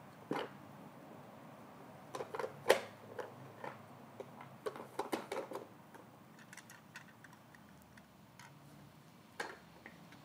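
Scattered light clicks and knocks of small hard objects, clustered in the first half and loudest about two and a half seconds in, over a faint steady hum.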